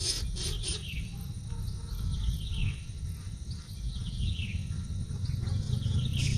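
Insects, crickets by the sound, trilling steadily on a thin high tone, over a low rumble, with two short falling calls a few seconds apart.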